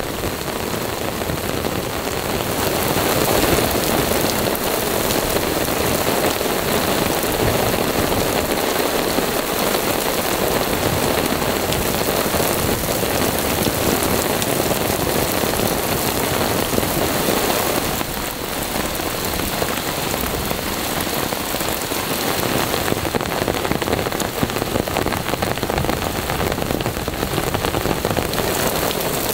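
Heavy rain in a downpour, a steady, dense hiss of drops pouring onto the sodden, puddled forest floor, with a brief dip in level about eighteen seconds in.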